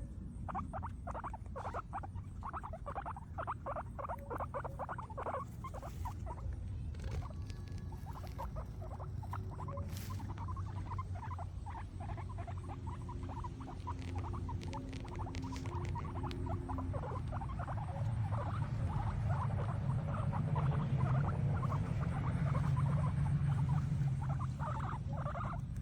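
Guinea pigs chewing grass: rapid, steady crunching and nibbling.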